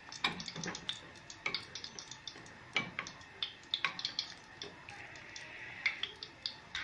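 Egg-coated minced-meat koftas frying in hot ghee, crackling with irregular sharp pops and spits over a faint steady sizzle.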